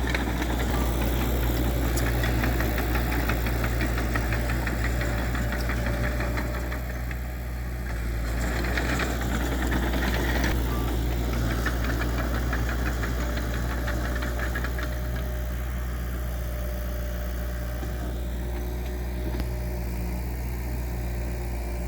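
Heavy diesel earthmoving machine's engine running steadily with a clattering rattle over it, the rattle busier for a few seconds about eight seconds in.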